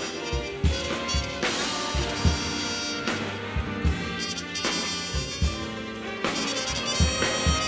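Big band jazz ensemble playing an instrumental passage: horns hold chords over a drum kit with bass drum hits and cymbals.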